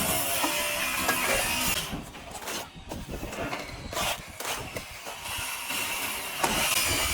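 Plastering trowel scraping and rubbing over plaster on a wall in a continuous rasping stroke, easing off for about two seconds midway before resuming.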